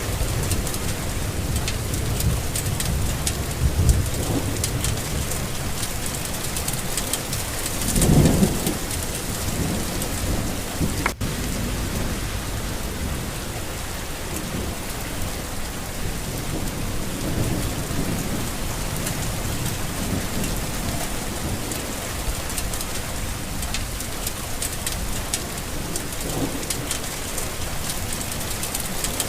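Steady rain falling, with low rolling thunder underneath that swells loudest about eight seconds in.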